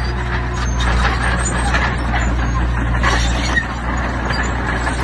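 Diesel engine of heavy earthmoving machinery running steadily under load, with a busy, irregular clatter and scraping over it, typical of stone being pushed or loaded.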